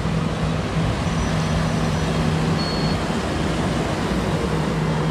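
Steady motor-vehicle engine and traffic rumble with a low hum, starting and cutting off abruptly.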